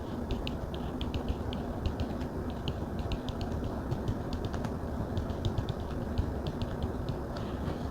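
Stylus tapping and writing on a Samsung Galaxy tablet's glass screen: light, quick, irregular taps, several a second, over a steady low background hiss.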